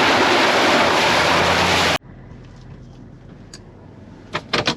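Loud steady rushing noise, like wind or road rush, that cuts off abruptly about two seconds in, followed by a quiet background with a few sharp clicks and knocks near the end.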